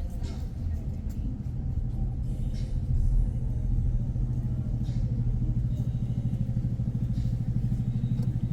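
Motor vehicle engine running at idle: a steady low rumble with a fast, even throb that grows more pronounced a few seconds in.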